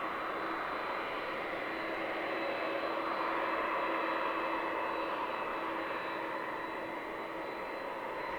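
Jet airliner's engines running: a steady rush with a held whine, swelling a little around the middle and easing slightly toward the end.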